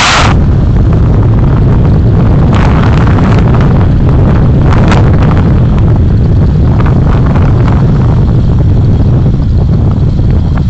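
Car driving, picked up by a dashcam: a loud, steady low rumble of road and wind noise on the microphone, with brief hissy swells right at the start and at about three and five seconds.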